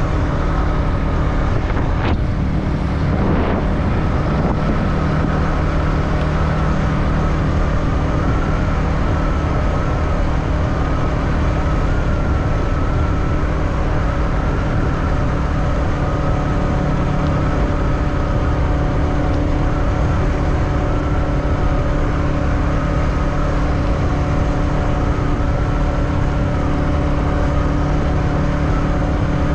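Motorbike engine running steadily while riding, its tone wavering slightly, over a heavy low rumble. Two brief knocks sound about two and three and a half seconds in.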